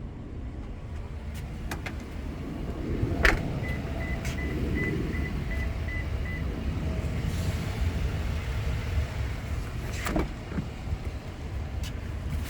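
Low, steady rumble of the 2022 Toyota Tundra TRD idling. A sharp click comes about three seconds in, then a run of short, high electronic beeps, about three a second for nearly three seconds, and another click near the ten-second mark.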